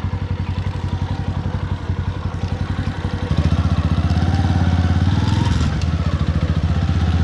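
Motorcycle engine running as the bike is ridden, with a fast, even pulsing that gets louder about three seconds in.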